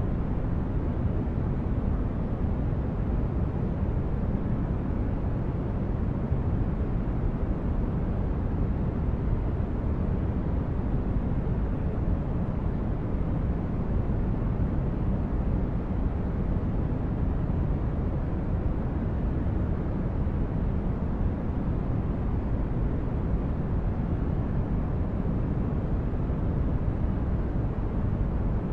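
Steady sleep-aid noise with no change: an even, deep hiss weighted toward the low end, rumbling more than it hisses, like brown noise.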